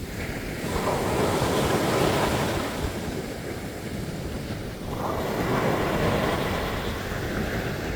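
Ocean surf breaking on a beach: a steady wash of waves, with a wave surging in about a second in and another about five seconds in.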